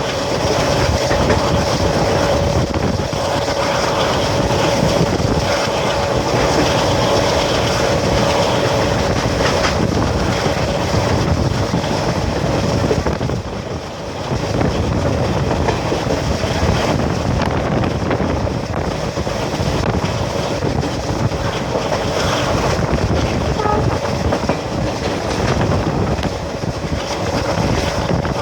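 Indian Railways WDM-3A ALCO diesel locomotive's turbocharged V16 engine at full throttle (top notch), a continuous dense chugging with a steady whine running through it; the level dips briefly about halfway, then picks up again.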